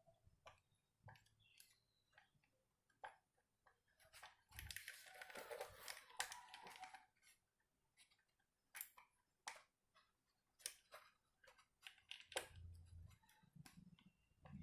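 Faint clicks and taps of small parts being handled during a speedometer rebuild, with a few seconds of scraping or rustling about a third of the way in.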